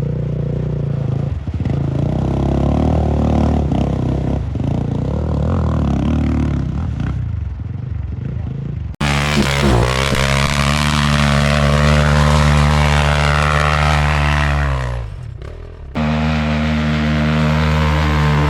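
Off-road enduro motorcycle engine running hard under load. The sound switches abruptly twice, and in the middle stretch the engine note drops away as the throttle closes.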